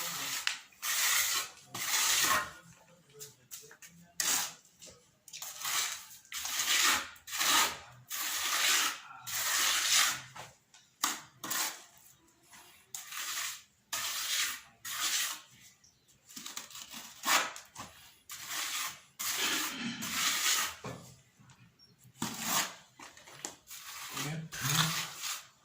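Repeated rubbing strokes on a hard surface, about one a second, each a short hiss-like scrape, with brief pauses between runs.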